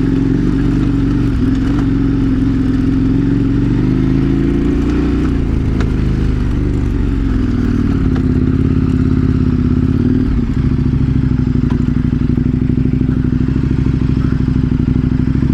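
KTM 1090 Adventure R's V-twin engine running under way, its note rising and falling in the middle and dipping briefly about ten seconds in, as at a gear change, then holding steady.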